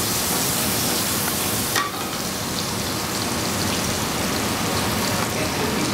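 Diced guanciale frying in a little oil in a pan over a gas flame: a steady, dense sizzle, brighter for the first couple of seconds and slightly duller after.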